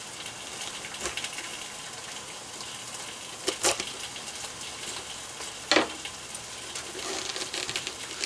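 Salt pork frying in a pan with a steady sizzle, and twice a sharp crunch as a knife cuts into the core of a head of cabbage.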